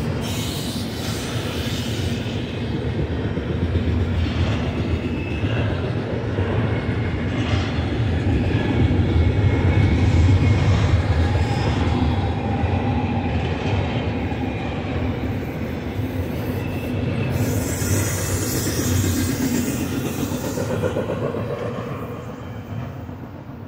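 Double-stack intermodal freight cars rolling past on the mainline, a steady rumble of steel wheels on the rails with faint high wheel squeal. The sound fades as the last car goes by near the end.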